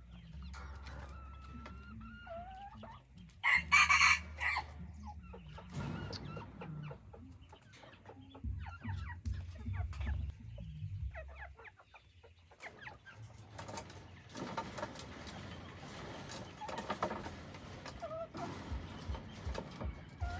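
Junglefowl-hybrid rooster crowing once, loud and short, a few seconds in, with softer clucking calls from the chickens before and after.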